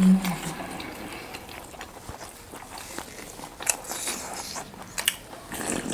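Close-miked eating: biting and chewing meat lollipops, with scattered small crunches and wet clicks of chewing.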